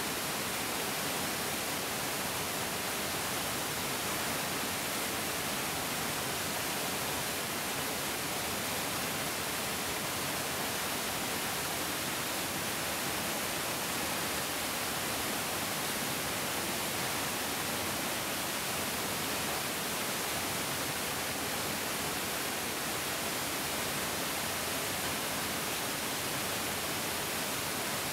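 Mountain stream rushing over rocks, a steady, even hiss of flowing water with no change.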